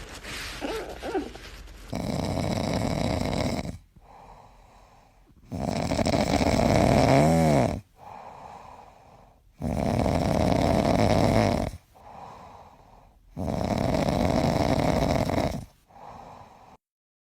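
A pet snoring loudly: four long snores, each about two seconds, coming about every four seconds.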